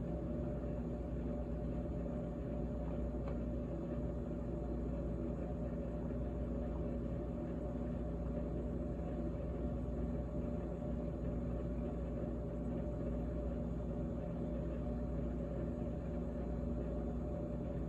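GE GTH18XCTZRBB refrigerator running: a steady hum with several fixed tones that holds level throughout.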